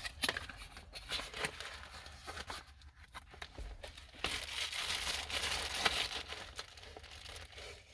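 Packaging crinkling and tearing as a newly delivered tumbler is unwrapped by hand, in irregular crackles that grow busier and louder about halfway through.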